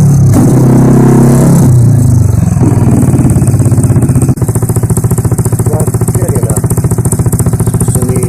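Vespa Primavera scooter's single-cylinder engine running loud through a custom Chuenk IMS exhaust with the dB killer removed. The revs fall off over the first couple of seconds and it settles into an even, pulsing idle.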